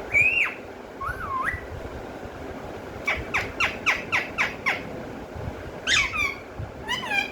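Pet parrot whistling and calling: a loud call just after the start and a wavering whistle about a second in, then a quick run of about eight short falling notes, with more calls near the end.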